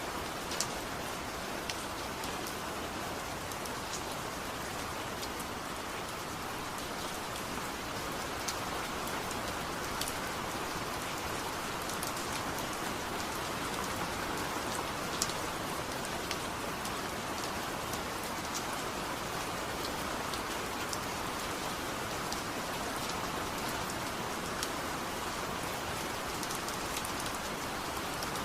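Steady rain: an even hiss with scattered sharp ticks.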